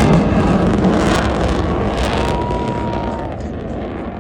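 Sukhoi Su-30MKI twin-engine fighter jet passing overhead, its jet noise a loud, crackling rumble that fades steadily as the aircraft draws away.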